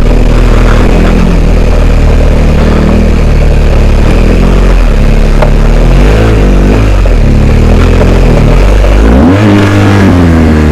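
BMW R1250GS Adventure's boxer-twin engine working a rutted off-road track, its revs rising and falling as the throttle is opened and backed off, with a sharper rev about two thirds of the way through.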